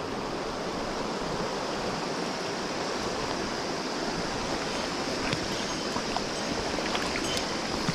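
Mountain stream water flowing, a steady even rush, with a few faint clicks in the second half.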